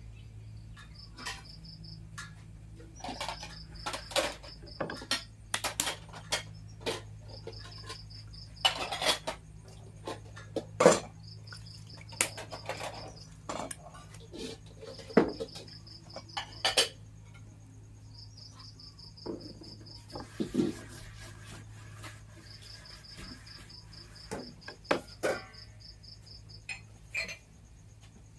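Kitchen clatter of pots, dishes and utensils being handled: irregular knocks and clinks, some sharp. A cricket chirps in repeated strings of quick pulses throughout, over a low steady hum.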